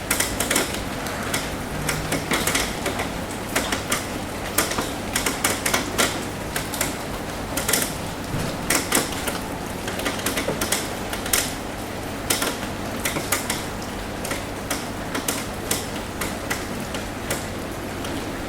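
Rain falling on a roof: dense, irregular drop taps, several a second, over a steady hiss of rain.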